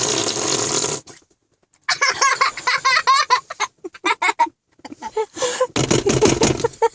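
A child's arm fart, a hand cupped in the armpit and the arm pumped down, giving one long rasping blast that ends about a second in. Laughter follows for several seconds.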